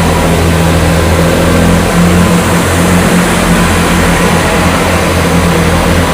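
Large engine running steadily with a low, even hum, typical of an idling diesel.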